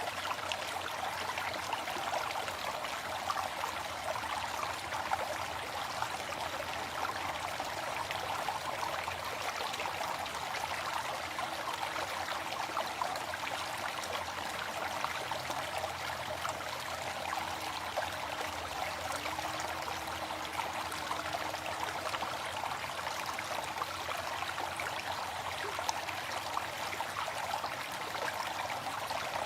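Waterfall: falling water splashing in a steady, even rush.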